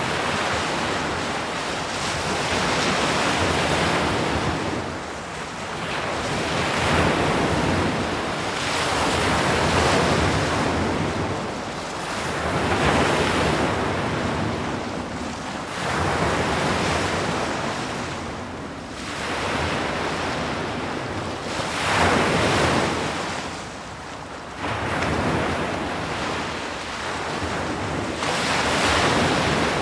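Sea waves breaking on a shore, a steady rushing hiss that swells and eases every three to four seconds as each wave comes in and draws back.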